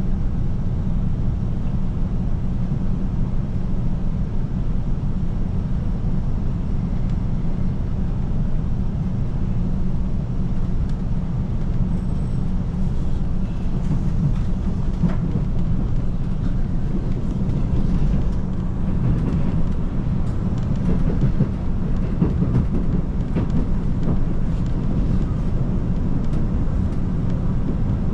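KiHa 185 series diesel express train running along the line: a steady low rumble of engine and wheels on the rails, with a few faint ticks.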